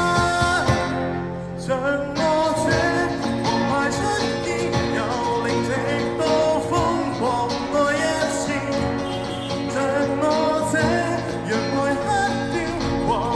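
A live band playing a Cantopop rock song, with singing.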